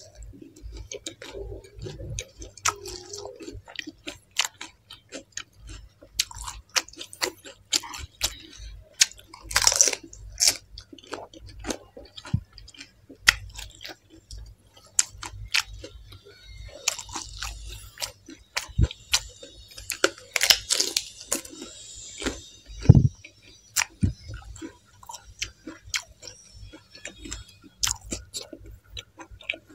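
Close-miked crunching and chewing of pani puri: crisp, hollow fried puris cracking between the teeth, then being chewed, in an irregular run of sharp crackles.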